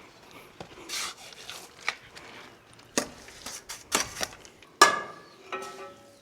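Hand tools scraping and tapping at stonework, in short separate strokes. About five seconds in comes a sharp metallic clink that rings briefly, followed by a fainter ringing clink.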